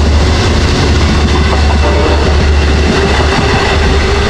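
Long Island Rail Road diesel train led by a DE30AC locomotive running past close by: a loud, steady low diesel drone with the rumble of wheels on the rails.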